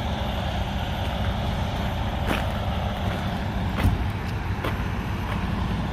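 Semi-truck diesel engine running steadily with a low, fast-pulsing rumble, with a few sharp clicks or knocks over it.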